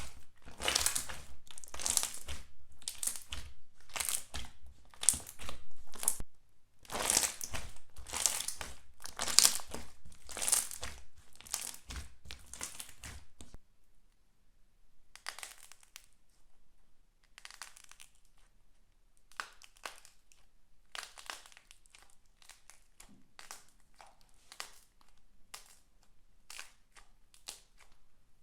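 Slime being squeezed and pressed by hand, a series of squishing strokes about once a second. About halfway through, the strokes become fainter and more scattered.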